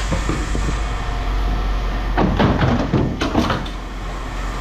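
Scrap metal being handled at a scale, a burst of clattering knocks about two seconds in that lasts about a second and a half, over a steady low hum.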